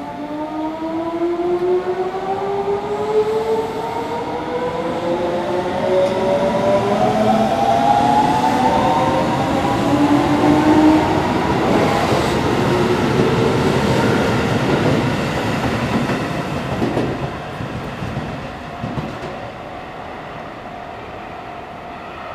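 Electric commuter train pulling away from a station platform. Its motor whine rises steadily in pitch as it accelerates, over the rumble of the wheels on the rails. The sound builds to its loudest about halfway through, then fades as the train leaves.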